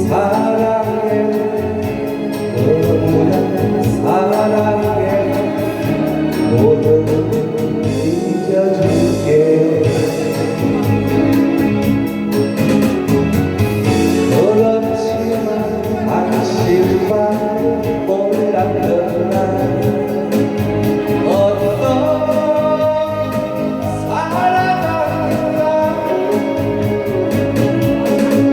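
A woman singing a Korean song with wavering, gliding held notes over an instrumental backing track with a steady beat.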